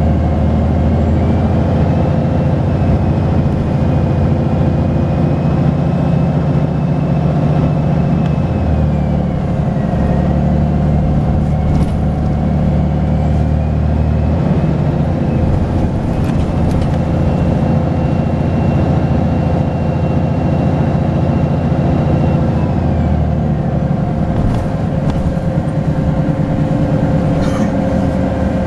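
Volvo B10BLE bus's diesel engine pulling under way, with a thin turbocharger whistle over the engine note. The whistle rises and falls with the throttle, dipping about ten seconds in, climbing again, and falling away near the end.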